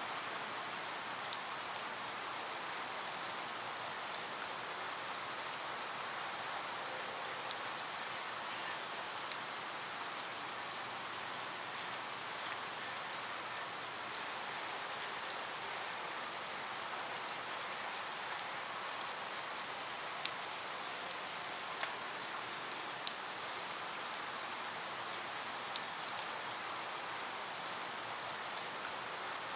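Steady rain: an even hiss of rainfall with individual drops ticking here and there.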